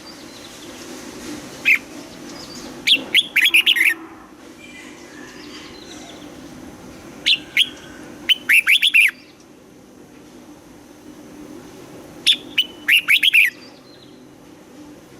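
Red-whiskered bulbul singing loud, short phrases of several quick notes every few seconds, over a steady low hum.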